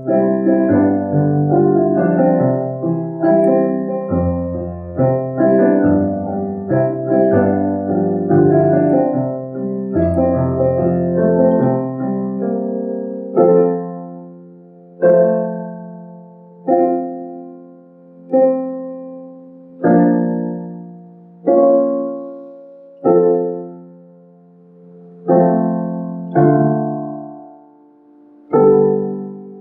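Piano playing hymn accompaniment without voices: full chords over a moving bass line for about the first thirteen seconds, then single chords struck roughly every second and a half, each left to ring and die away.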